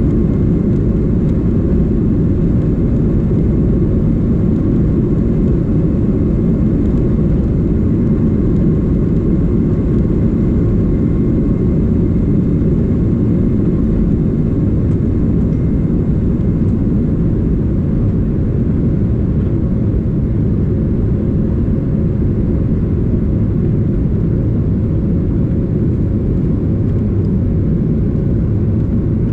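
Steady low rumble of a Boeing 737-800's CFM56-7B jet engines, with a faint steady whine in it.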